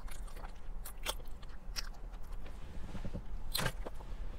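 Close-up mouth sounds of chewing and biting fried chicken, with scattered short crunches of the breading, the loudest about three-quarters of the way through.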